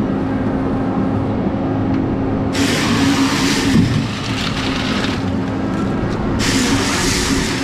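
Heavy forestry machine's engine running steadily under load, with two bursts of harsh, high-pitched noise from the working head, one about two and a half seconds in and another near the end.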